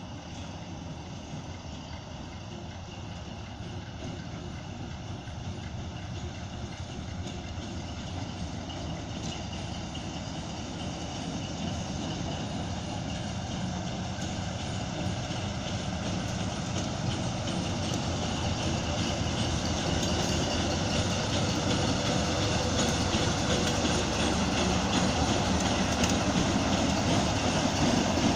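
TU2 narrow-gauge diesel locomotive's V12 diesel engine running steadily as the locomotive approaches, growing gradually louder throughout. The engine is being run in after a repair.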